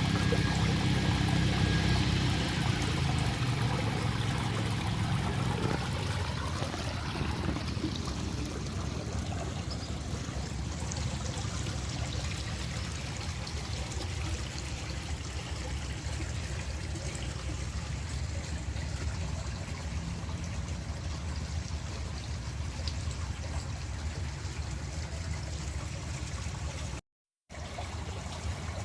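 Water trickling and running steadily, as in a garden stream or small cascade, with a low rumble that fades away over the first few seconds. The sound drops out for about half a second near the end.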